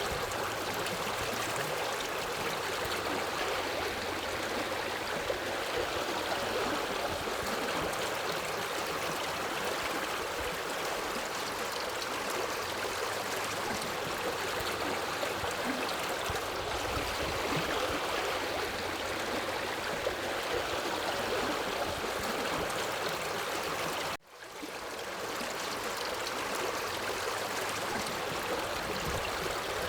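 A forest river flowing steadily, a continuous rush of water. About 24 seconds in, the sound cuts out abruptly and swells back up within a second.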